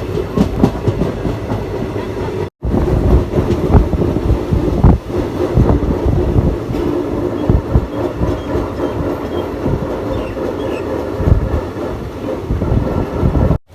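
Passenger train running on the track: a steady loud rumble with irregular clacks of the wheels over rail joints.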